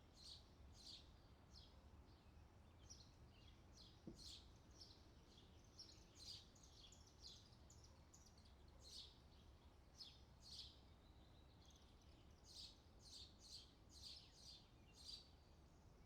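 Faint bird chirping: a long run of short, high chirps, coming closer together near the end, over a steady low rumble.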